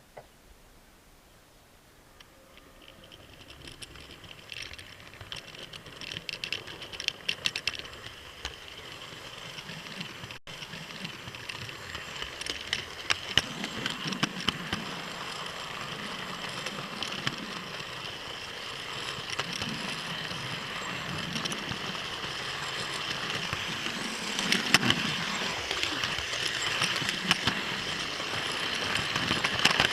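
Model train running on the layout's track, drawing steadily closer and louder. A high motor whine runs under rapid clicking of the wheels over rail joints, with denser clattering bursts a few seconds in and again near the end.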